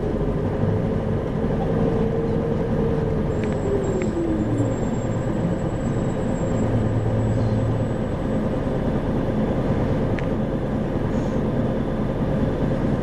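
Interior running sound of an Isuzu Erga city bus (2RG-LV290N4) with its four-cylinder diesel and road noise, heard from inside the cabin. A drivetrain whine holds steady, then falls in pitch and fades about four to five seconds in as the bus eases off.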